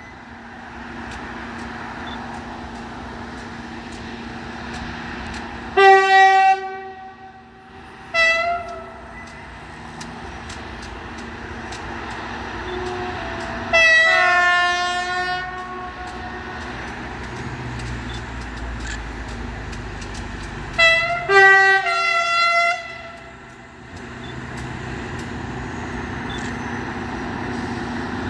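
Locomotive horn sounding repeatedly: a short blast about six seconds in, another around eight seconds, a longer blast of about two seconds around fourteen seconds, and a quick run of short blasts around twenty-one to twenty-three seconds, over a steady low hum of a running train.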